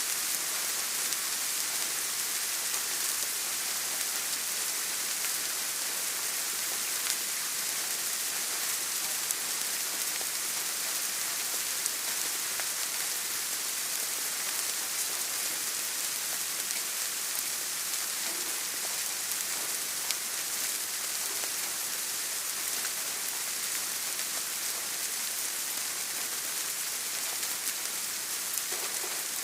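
Steady rain: an even, unbroken hiss with faint scattered ticks of individual drops.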